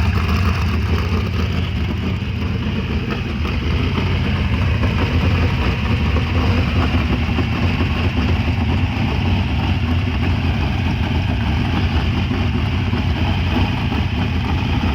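Oval-track race car engine idling loudly and steadily.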